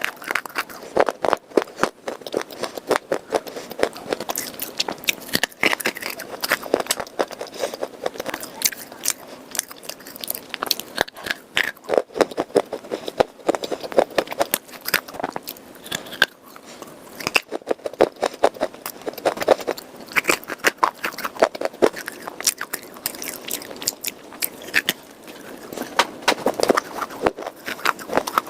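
Crunching and chewing of red khawa clay and chalk: a dense, continuous run of crisp crackling bites.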